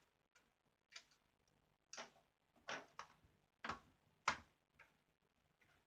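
A screwdriver working on the small screws in the plastic underside of a Toshiba Satellite laptop: a string of light, irregular clicks and taps, about eight of them, the sharpest a little past four seconds in.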